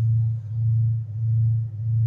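A low, steady hum that swells and fades in a regular slow pulse, about three pulses in two seconds, like a sonar-style drone.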